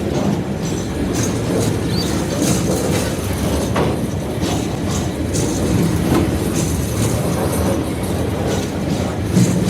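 A train's wagons rolling past with a steady rumble, the wheels clacking irregularly over the rail joints and squealing faintly now and then.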